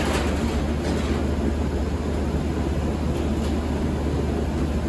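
Honda CR-V's B20 four-cylinder engine idling steadily through a freshly welded straight pipe with no muffler, a constant low drone.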